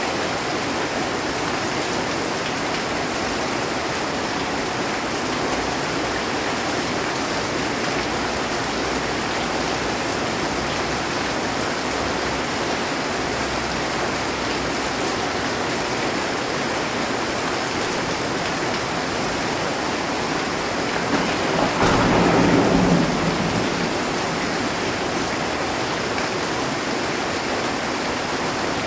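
Heavy rain falling steadily on a metal roof, with one sharp clap of thunder about three quarters of the way through that rumbles and fades over a couple of seconds.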